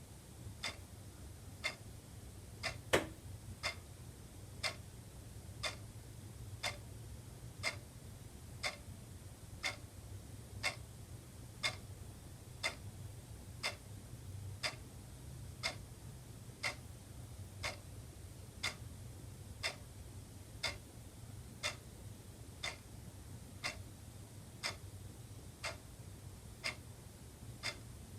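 Wall clock ticking steadily at about one tick a second, with one louder tick about three seconds in, over a faint low hum.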